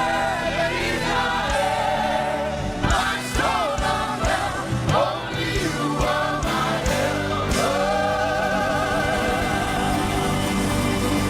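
Live gospel praise music: a choir and congregation singing an upbeat song over a band with drums, with long held notes near the end.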